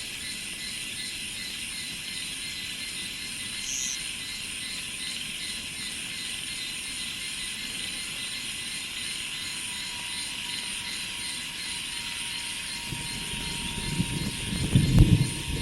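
Steady high-pitched chorus of cicadas and other insects, with a single bird chirp about four seconds in. In the last few seconds a low rumble grows loud as a train comes close.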